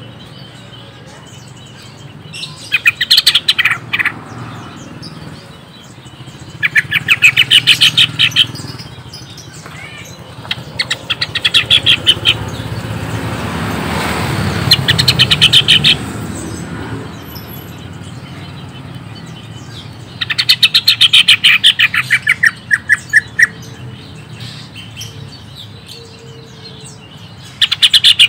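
Cucak ijo (green leafbird) singing in short bursts of rapid, repeated chattering notes, about six bursts a few seconds apart. A broad rush of noise swells and fades in the middle.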